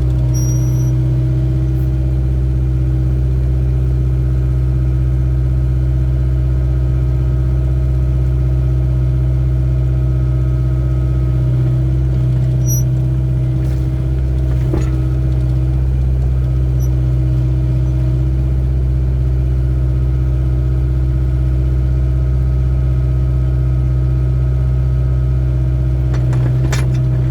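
Excavator's diesel engine running at a steady speed, with a strong low hum and steady higher tones over it. A single brief clank sounds about fifteen seconds in.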